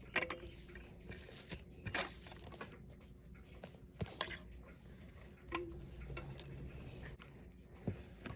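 Small sharp clicks and taps of watchmaker's tools and parts during the disassembly of a Seiko 5 automatic wristwatch (7S36 movement), about six at irregular intervals.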